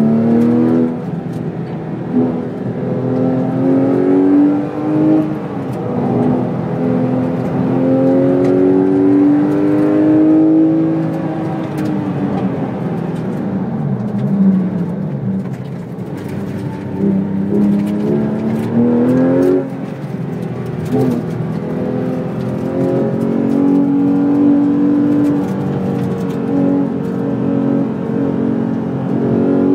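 Porsche 911 GT3 RS 4.0's four-litre flat-six, heard from inside the cabin while lapping a track. The engine note climbs as the car accelerates, with sharp drops at the gear changes. It falls away as the car slows about halfway through, then climbs again.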